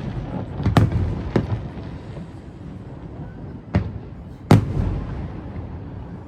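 Aerial fireworks shells bursting: four sharp bangs, the loudest about three-quarters of the way in, over a continuous low rumble of more distant bursts.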